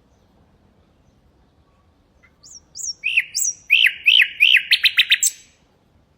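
Nightingale singing one phrase. After about two seconds of quiet come a few sweeping whistled notes, then repeated notes that speed up into a fast rattling run before stopping abruptly.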